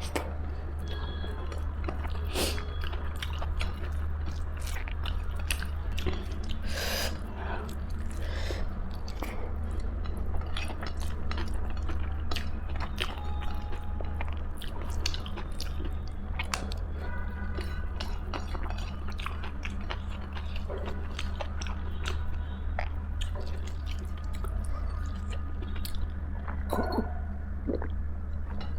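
Close-miked chewing and mouth sounds of someone eating dal chawal (rice and lentils) with pickle: many small wet clicks and smacks throughout, over a steady low hum.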